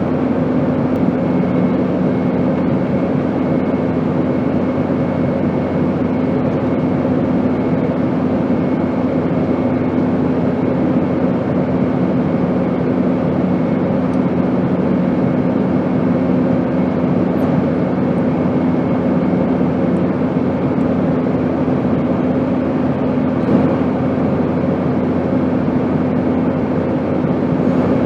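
Airplane in flight: a steady rushing drone with an even low hum under it, unchanging.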